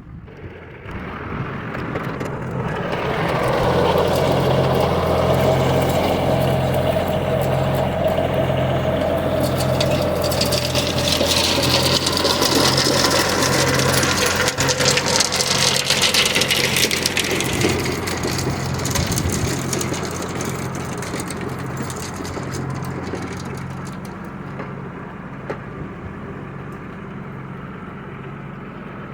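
Tractor engine running up to working speed, holding loud for about fifteen seconds while the loader works, with a hissing, scraping layer over it in the middle, then easing back to a quieter idle near the end.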